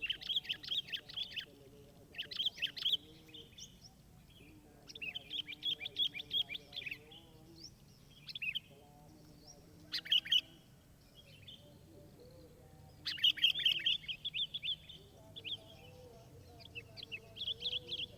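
A songbird singing in repeated bursts of rapid, high chattering notes, each burst lasting a second or two, with short pauses between.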